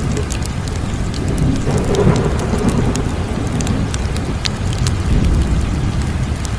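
Crackling wood fire: scattered sharp pops and snaps over a steady low rumble, which swells briefly about two seconds in.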